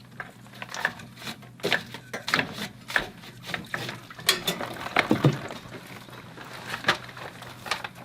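Irregular metallic clicks, clinks and knocks from a mini tubing cutter being worked around thin copper pipe.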